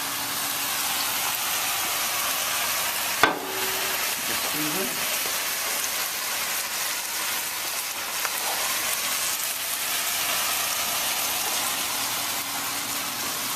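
Leg of lamb and vegetables sizzling steadily in hot olive oil in a pan, with one sharp knock about three seconds in.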